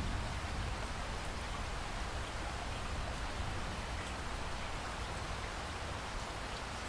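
Steady rain falling, an even hiss with scattered faint drop ticks and a low rumble underneath.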